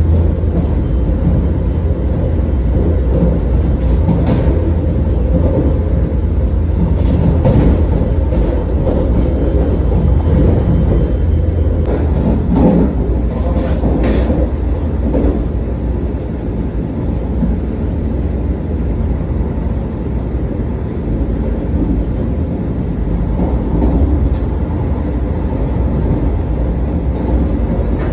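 Vande Bharat Express electric multiple-unit train running at speed, heard from inside the coach: a steady low rumble of wheels on rail. A few louder clacks and knocks come from the wheels over the track now and then.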